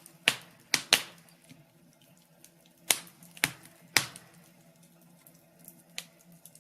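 Wood fire crackling in a fireplace: irregular sharp pops and snaps, several in the first second and a few more about three to four seconds in, over a faint steady hum.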